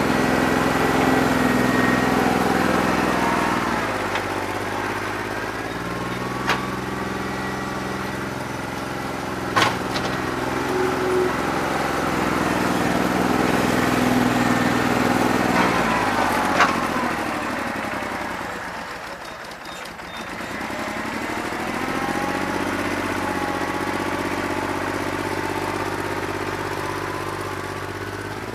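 New Holland 1320 compact tractor's three-cylinder diesel engine running unevenly with a bad injector, its speed dipping, sagging well down about two-thirds of the way through and then picking back up. A few sharp clanks sound over it.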